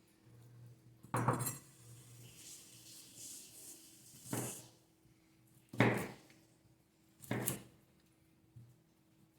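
Kitchenware being handled: four separate sharp clatters of dishes and metal utensils, each a second or more apart, with softer rustling between the first two.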